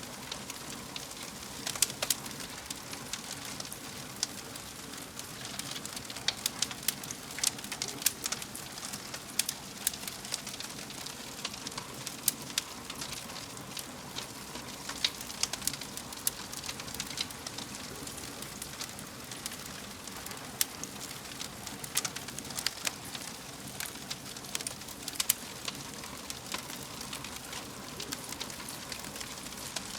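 Wood fire crackling in a fireplace: irregular sharp pops and snaps, some louder than others, over a steady soft hiss of burning.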